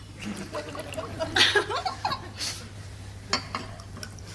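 Short bursts of soft laughter or chuckling over a low steady hum, followed by a couple of light clicks near the end.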